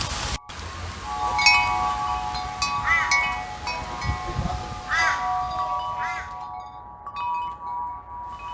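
Wind chimes ringing, several tones overlapping and struck again every second or two, with a bird giving a short arched call three times.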